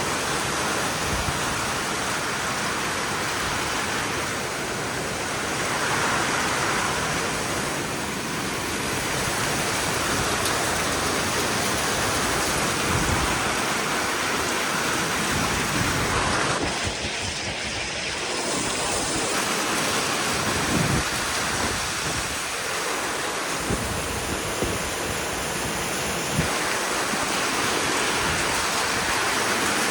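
Rain and wind of a squall line: a steady rushing noise that swells a little now and then.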